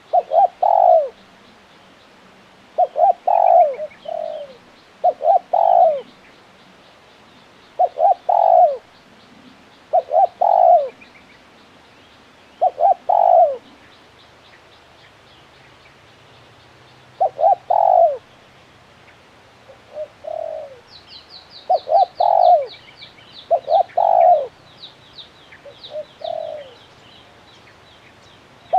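Male spotted dove cooing over and over in short phrases of a few quick low notes, about a dozen phrases with a longer pause around the middle. In the second half another bird adds fast, high chirps.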